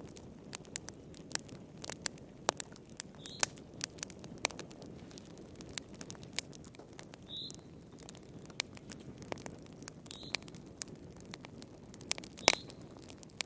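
Wood fire burning in a fireplace, crackling with sharp, irregular pops over a low steady hiss; the loudest pop comes near the end.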